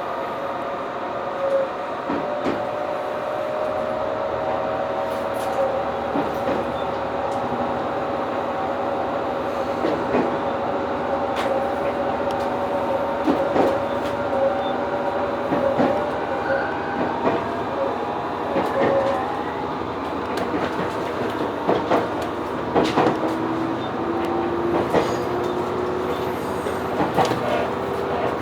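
Diesel railcar running on the line, heard from inside the car: a steady drone with slowly rising tones from the engine and transmission. Irregular clicks and knocks of the wheels over rail joints and points come more often in the second half.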